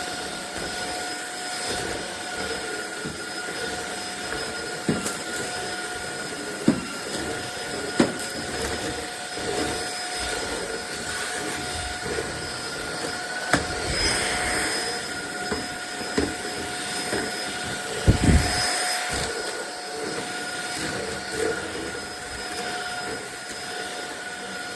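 Cordless stick vacuum running steadily, its motor giving a constant high whine over a rushing air noise. Now and then the floor head knocks and bumps as it is pushed about, with the loudest thumps about three quarters of the way through.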